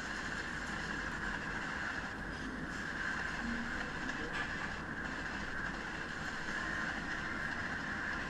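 Indian Railways train running at speed: a steady, unchanging rush of wheel and rail noise.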